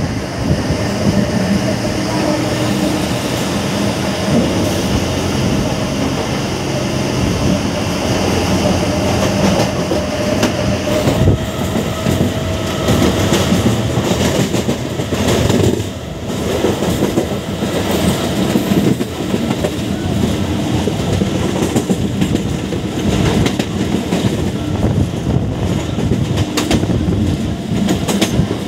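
MEMU electric train running at speed, its wheels clattering over rail joints amid a steady rolling rumble.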